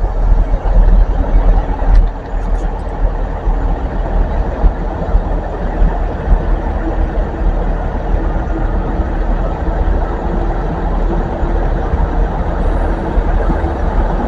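Train at the station platform with its engine running: a loud, steady low rumble, with a faint steady hum joining about six seconds in.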